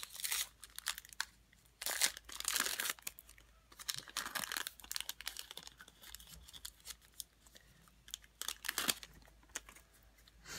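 Trading cards being handled in several short bursts of rustling, sliding and crinkling as cards and their pack wrapper are moved about.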